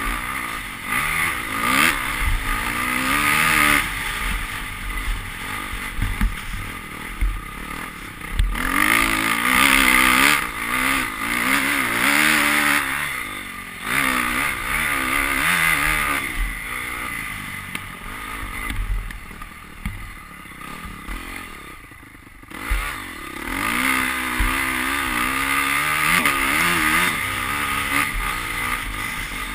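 Honda CRF250 four-stroke single-cylinder dirt bike engine being ridden hard, its pitch rising and falling over and over as the throttle opens and closes. It drops away briefly about three-quarters of the way through.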